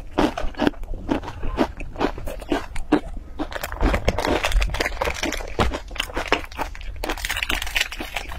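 Crunchy chewing of a puffed corn snack bar: a run of crisp crunches, about three a second. Near the end, a plastic snack wrapper crinkles.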